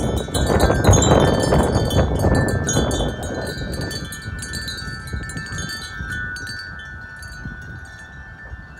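Wind chimes clanging and ringing continuously in strong wind. A loud gust of wind buffets the microphone in the first few seconds, then eases off while the chimes keep ringing.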